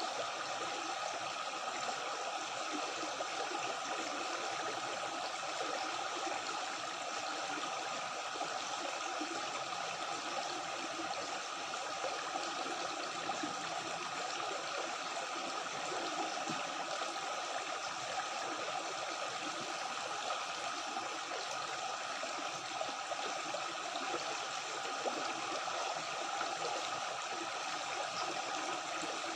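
Stream water flowing steadily, an even rushing and gurgling with no breaks.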